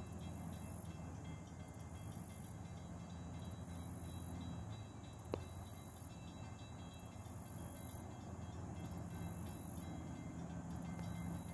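Faint, steady low rumble of a distant train, with a single sharp click about five seconds in.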